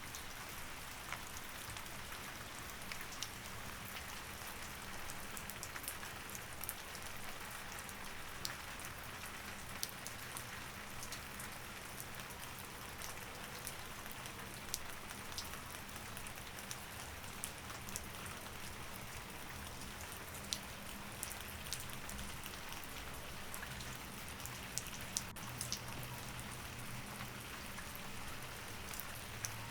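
Steady rain falling, with many scattered drops ticking on a surface.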